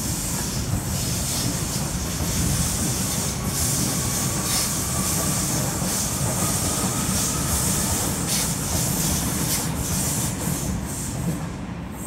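Double-deck electric suburban train passing close by: a steady, loud wheels-on-rails noise, with a faint whine in the middle of the pass.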